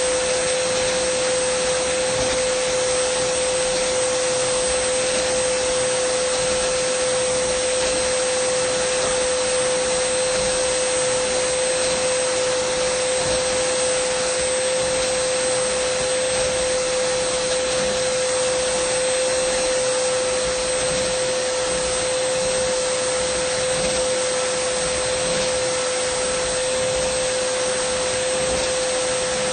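Dyson vacuum cleaner running steadily: an even rush of air with a constant humming tone from the motor, unchanging throughout.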